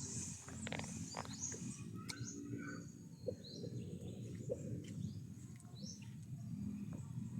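Birds chirping: a handful of short, high chirps spaced a second or two apart, over a steady low background rumble.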